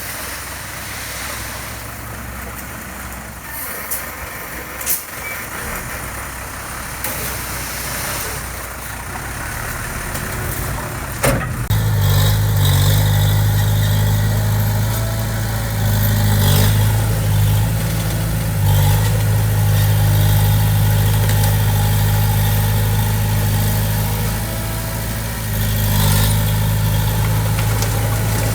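Heavy diesel engine of construction machinery running. A sharp knock comes about eleven seconds in, after which the engine's low, steady drone becomes much louder and holds. A few lighter clicks sound earlier on.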